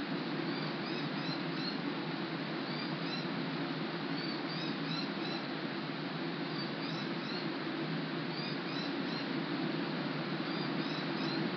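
Steady rainfall, with a bird repeatedly giving small groups of high chirps every second or two.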